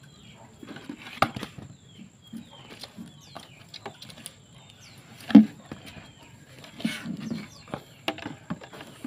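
Young long-tailed shrike giving many short, quick chirps that fall in pitch, with rustling and knocks of handling; the loudest is a sharp knock about five seconds in.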